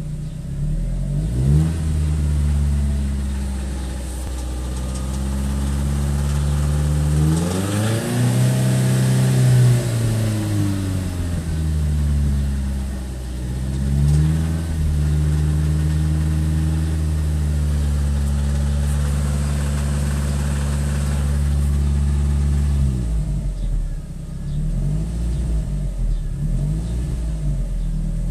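Audi S3's 1.8T 20-valve four-cylinder engine idling and being revved: it revs up and back down once, then is held at raised revs for several seconds before dropping back to idle. The engine is knocking from a failed big-end bearing, which had shed shavings into the sump.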